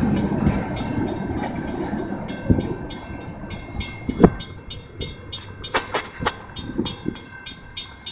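Train cars rolling past on the track, the rumble fading as the train moves away. Wheels make rapid regular clicking over the rails, with a few sharp metallic clanks in the second half.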